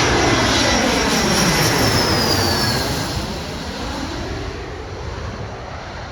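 Embraer E170-family regional jet passing close by: the rumble of its twin turbofans with a high whine that falls in pitch, loudest for the first couple of seconds and then fading away.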